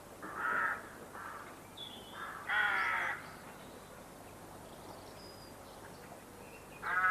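Harsh, cawing bird calls: several short calls in the first three seconds, a pause, then another call near the end.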